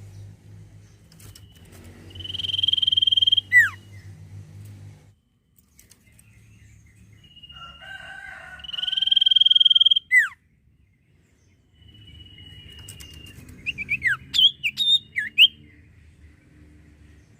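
Sirtu (common iora) singing: three long, steady high whistles, each ending in a quick downward slur, then a run of short quick chirps. A faint low hum lies underneath.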